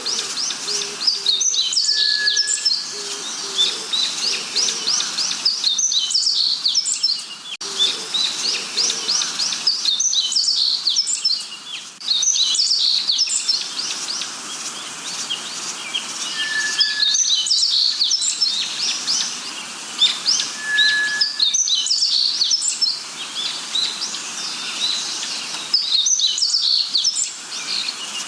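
Dense chorus of many birds: overlapping high chirps and rapid trills, with a short whistled note now and then.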